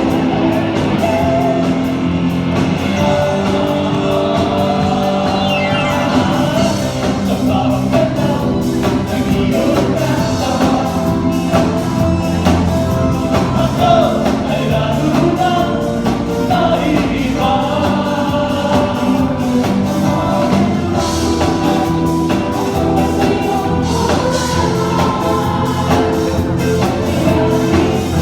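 Live band performing a disco-rock song, with singing over a steady bass and drum beat.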